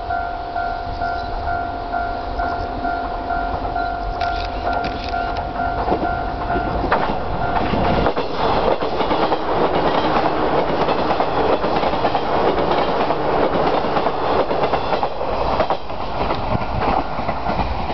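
Japanese level-crossing warning bell ringing in a steady, repeating two-tone ding. About seven seconds in, a JR Mito Line local electric train passes over the crossing, its wheels clattering over the rail joints for about nine seconds before it fades. The bell is faintly heard again near the end.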